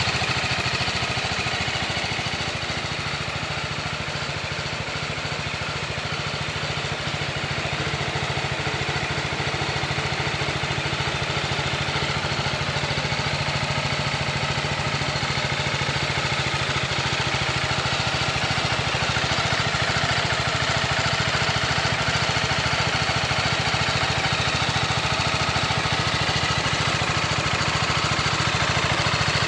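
BMW G310R's 313 cc single-cylinder engine idling steadily, with an even, rapid low pulse.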